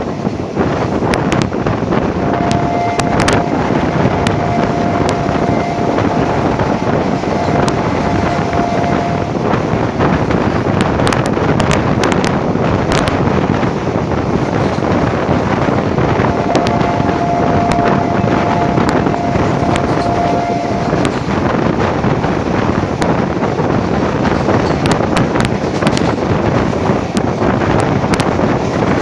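Train running at speed, heard from on board: a loud steady rumble with wind buffeting the microphone and irregular sharp clicks of the wheels over the rails. A steady high tone sounds twice, holding for several seconds each time.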